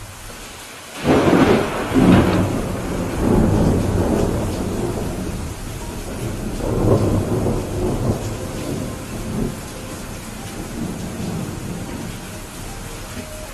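Thunderstorm: steady rain hiss throughout, broken about a second in by a sudden close thunderclap that rolls on in rumbles, with a second swell of rumbling around seven seconds that dies away.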